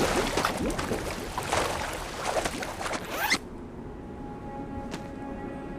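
Water churning and splashing in a rush of noise that cuts off suddenly about three and a half seconds in, leaving faint soft music.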